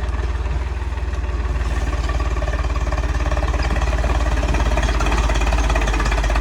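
Tractor diesel engine running steadily with an even, rapid firing beat.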